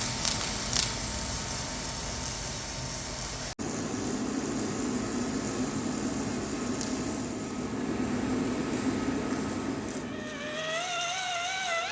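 Semi-automatic wire-feed arc welding on steel plate, 1.2 mm wire under 80/20 argon–CO2 shielding gas at about 24 volts: a steady hiss of the running arc. It breaks off abruptly about three and a half seconds in and resumes at once, a little fuller.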